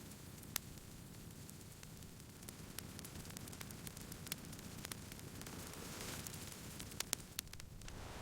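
Wood campfire crackling: irregular sharp pops and snaps of burning wood over a soft, steady rush of flame, with a brief swell of hiss about six seconds in.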